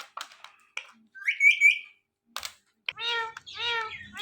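Ringneck parrot calling: a short rising, wavering whistle about a second in, a couple of sharp clicks, then three quick calls in a row near the end.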